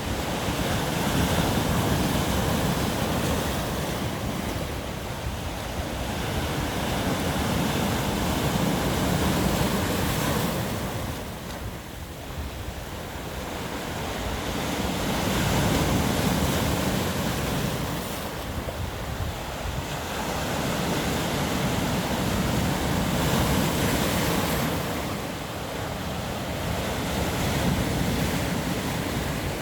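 Rough Black Sea surf breaking on the shore: a continuous wash of waves that swells and eases every several seconds, with some wind on the microphone.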